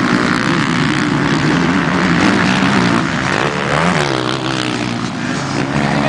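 Motocross motorcycle engines racing, the pitch rising and falling as the riders work the throttle, with a clear rev-up and drop about halfway through.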